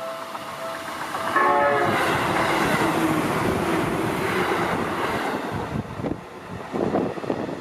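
A Seibu Ikebukuro Line electric train passing close by. A short horn-like tone falling in pitch sounds about one and a half seconds in, then the rush of the train going by, which eases after about four seconds, with a few rumbling surges near the end.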